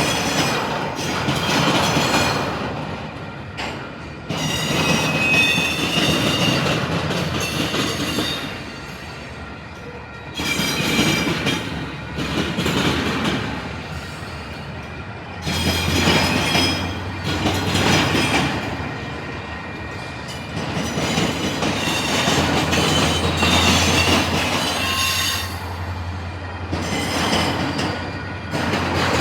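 Intermodal freight cars rolling over a railroad diamond crossing. The wheels clatter and bang across the crossing in loud surges every few seconds, with thin metallic wheel squeal. A low steady drone joins about halfway through.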